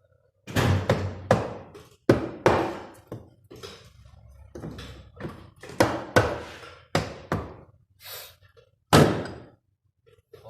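An irregular series of knocks and thuds, about ten in all, each sharp at the start and dying away quickly; the loudest comes about nine seconds in.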